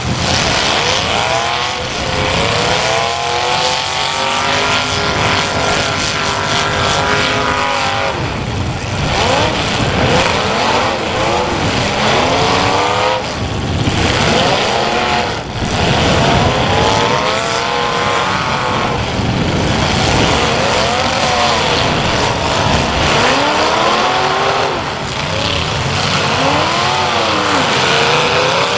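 Several demolition derby cars' engines revving hard, their pitches rising and falling over one another again and again as the cars push and ram each other.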